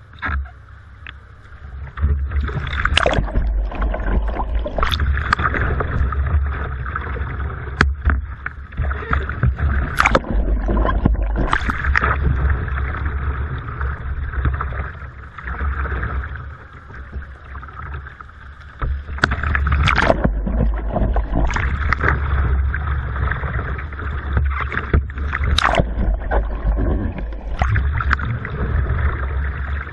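Water sloshing, gurgling and splashing around a kayak being rolled over and back up in a pool, with a steady low rumble of water against the hull and microphone. Sharp paddle splashes come every few seconds, with a quieter lull about halfway through.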